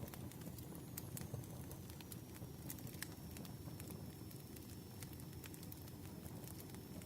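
Campfire crackling: irregular sharp pops and snaps scattered over a steady low rumble of burning wood.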